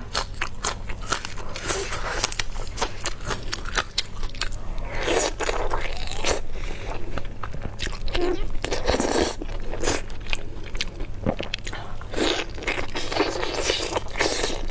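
Close-miked eating: a run of crunchy bites and chewing.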